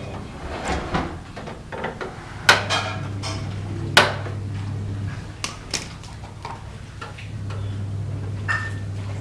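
Metal gas stove parts clinking and knocking as they are handled and washed, with a few sharp clinks, the loudest about two and a half and four seconds in.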